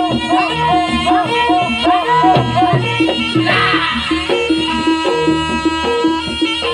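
Live Javanese traditional dance music: a pitched melody of repeated, arching ornamented notes over hand-drum beats, with a brief splash of brighter, noisy sound about halfway through.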